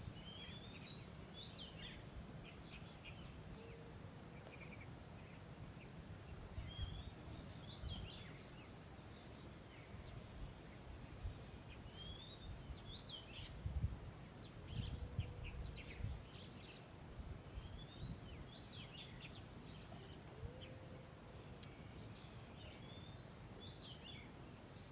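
A bird singing the same short phrase, a rising sweep followed by a few quick notes, about five times at intervals of roughly five seconds. Under it runs a faint low rumble of outdoor noise, with a few dull low thumps in the middle.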